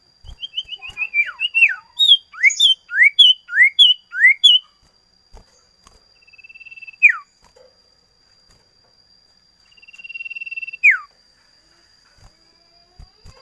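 Common iora singing. It gives a quick run of short chirps and swooping whistled notes, then twice a long drawn-out whistle that swells and ends in a sharp downward slur.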